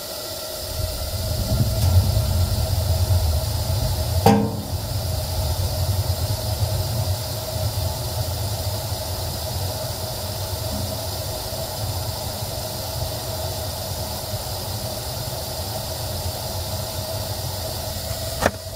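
Gas water heater burner lighting and then running steadily: a rushing hiss over a low rumble, with a single sharp click about four seconds in.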